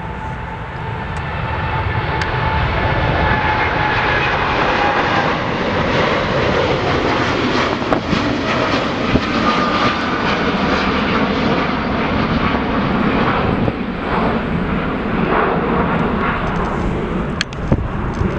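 Jet airliner engines passing close by. A loud rush builds over the first three seconds and then holds, with a thin whine that slowly falls in pitch in the first few seconds.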